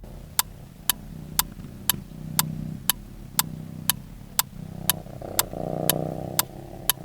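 A countdown clock ticking about twice a second over a cat purring, a low rumble that swells and fades about once a second with each breath.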